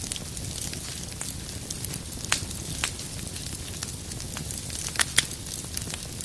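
Wood fire crackling, with a steady low rumble of flames and scattered sharp pops of burning firewood, two of them louder and close together about five seconds in.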